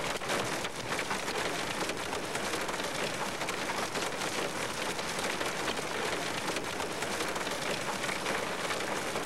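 Steady heavy rain: a dense, even hiss with a fine crackle of drops.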